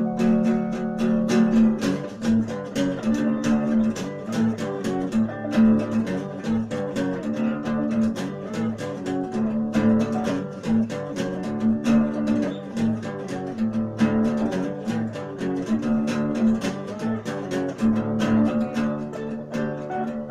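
Acoustic guitar music, picked and strummed in a quick, busy rhythm with many notes a second.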